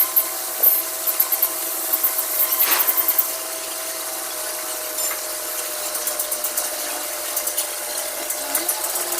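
Stick (SMAW) welding arc crackling and hissing along a steel tank seam, with a steady whine underneath; the crackle eases about three seconds in and picks up again near the end.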